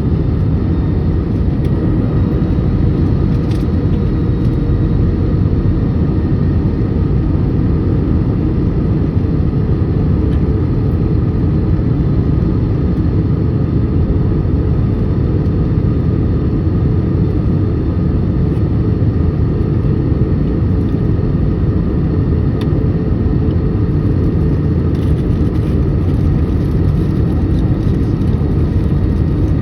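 Steady low rumble of an airliner's engines and rushing air heard inside the passenger cabin, with a few faint steady tones above it.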